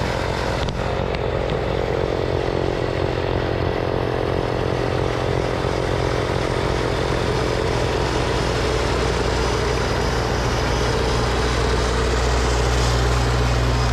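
Snowblower running steadily, its engine giving a constant hum.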